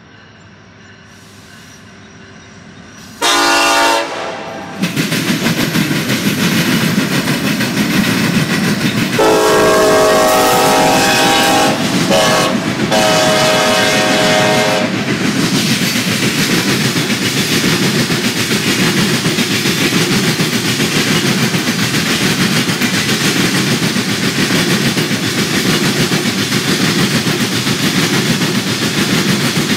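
Diesel locomotive horn on a CN SD70M-2 leading a freight train, sounding as the train nears a road crossing. It is faint at first, then a loud blast about three seconds in, then a long blast from about nine seconds in, broken briefly near twelve seconds. The locomotives go by, followed by the steady rumble and wheel clatter of covered grain hopper cars rolling past.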